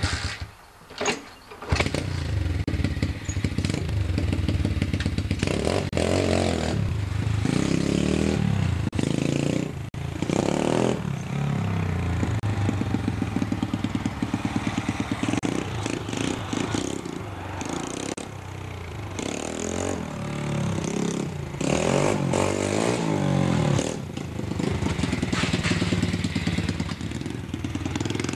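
Lifan 125 cc single-cylinder four-stroke engine in a Honda CT70 mini bike: a few sharp knocks in a brief lull, then the engine catches about two seconds in and runs, revved up and down several times.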